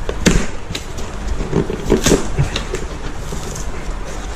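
Handling noise of expanding spray-foam packing being broken and pulled away from a dirt-bike engine in its cardboard shipping box: irregular crackles, scrapes and a few sharp knocks.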